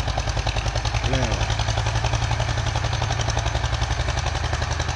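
Eicher tractor's diesel engine running hard under load while pulling, with a rapid, even chugging beat and a steady low hum.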